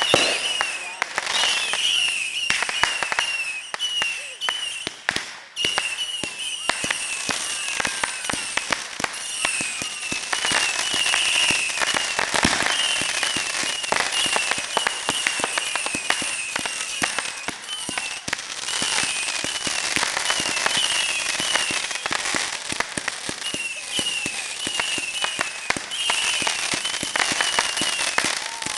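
Fireworks going off in a long, dense run of rapid crackling pops, with short high-pitched whistles recurring throughout.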